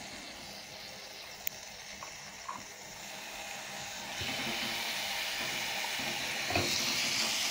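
Marinated chicken sizzling as it is tipped into hot oil in a frying pan: a faint hiss that grows louder from about four seconds in as more of the chicken lands, with a few soft thuds near the end.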